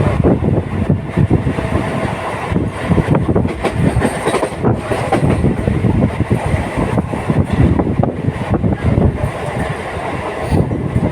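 Local passenger train running along the track: a loud, steady rumble with dense, irregular rattling and knocking from the wheels and carriages.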